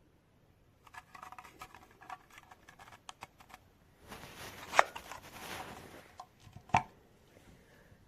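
A run of quick clicks and light rattles, like things being handled, then a short rustling with one sharp loud click, and another click a little later.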